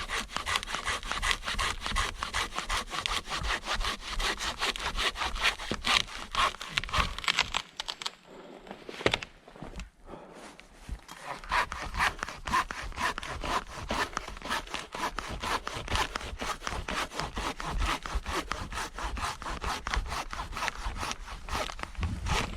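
Silky Zubat curved pruning saw cutting through a fallen tree trunk by hand, in steady rapid back-and-forth strokes. The strokes stop for a few seconds about eight seconds in, then resume.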